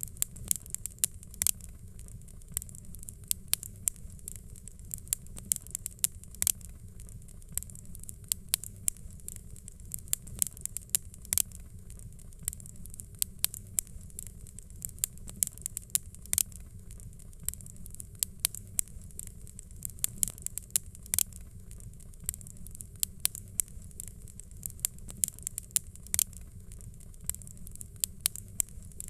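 Fire crackling, with frequent irregular sharp pops and snaps over a steady low rumble and a soft high hiss.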